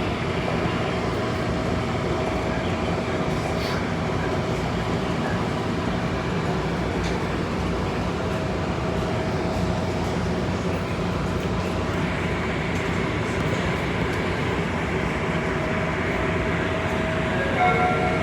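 Virginia Railway Express commuter train standing at the station with its diesel locomotive running: a steady rumble with a faint steady whine.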